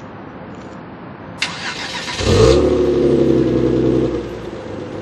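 Hyundai Genesis Coupe 380GT's 3.8-litre V6 being started through a variable-valve exhaust. The starter whirs for about a second, the engine catches, flares in revs for about two seconds, then settles to a steady idle near the end.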